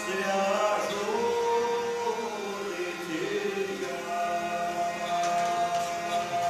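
Voices singing a slow, drawn-out melody without instruments, the notes sliding into one another, then settling into a long held note about four seconds in.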